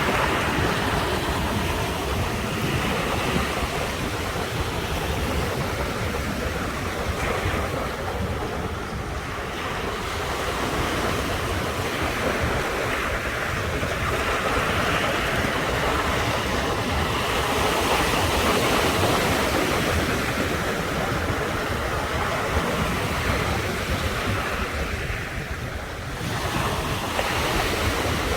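Sea waves breaking and washing onto the shore without pause, the surf swelling louder and easing off, with brief lulls about a third of the way in and near the end.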